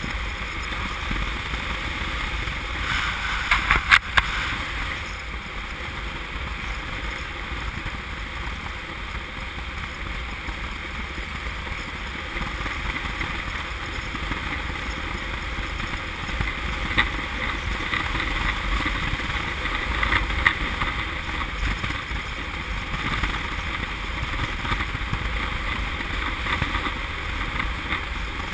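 Honda CM200T parallel-twin motorcycle riding along under heavy wind rumble on the camera microphone. Its engine pops sharply a few times about four seconds in and twice more later, a rough, misfiring running that the rider first took for water in the fuel and later traced to a nearly flat 6-volt battery.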